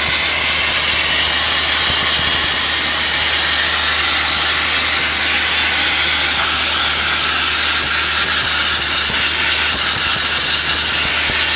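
Crushed-glass sandblasting nozzle blasting continuously: a loud, steady hiss of air and abrasive with a thin, high, steady whistle over it.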